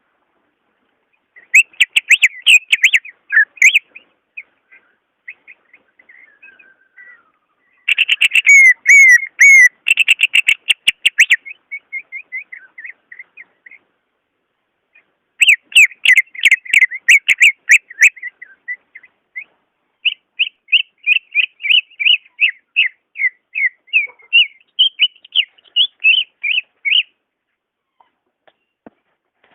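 Cucak ijo (green leafbird) singing in several bouts of rapid, quickly changing whistled and chattering notes. Near the end it goes into a steady run of repeated notes, about three a second, then stops.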